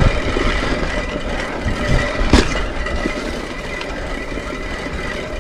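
Steady rushing noise from a mountain bike on a dirt trail, with a thump at the start and a sharp knock about two and a half seconds in.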